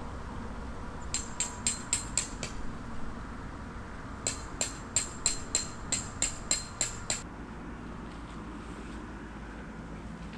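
Repeated sharp metallic hammer strikes in two runs: about six quick blows, a pause of a couple of seconds, then about nine more at roughly three a second.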